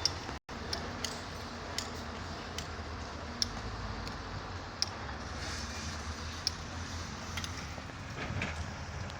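Heavy diesel quarry machinery running steadily, with sharp clicks or knocks about once a second. The sound drops out completely for a moment about half a second in.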